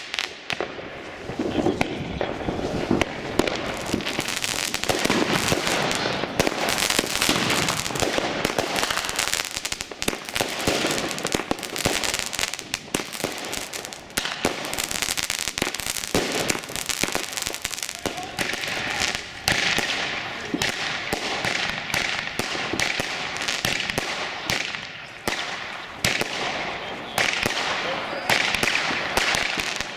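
Fireworks going off: a dense, irregular run of bangs and crackling pops, with people's voices in the background.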